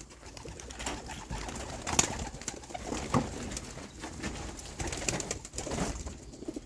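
Racing pigeons cooing softly, with a few light clicks, the sharpest about two seconds in.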